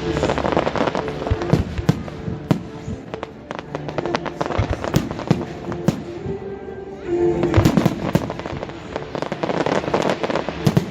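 Fireworks going off: a string of sharp bangs and crackling, thickest just after the start and again about seven seconds in, over music.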